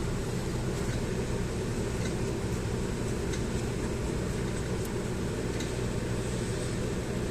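Supercharged Audi V6 petrol engine idling steadily, with a few faint ticks now and then; the owner says it is not running correctly and puts its shaking and noise down to a misfire.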